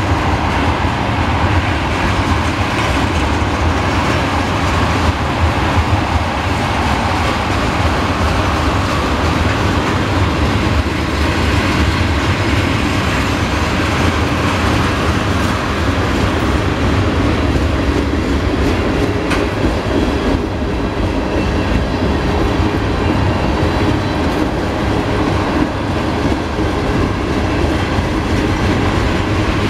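Freight train tank cars rolling past: steady, loud noise of steel wheels running on the rails, unbroken throughout.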